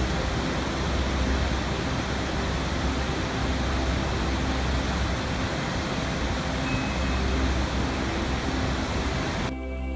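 Steady rushing water, an even full hiss like a waterfall, that sets in suddenly and cuts off abruptly near the end, with soft music barely audible beneath it.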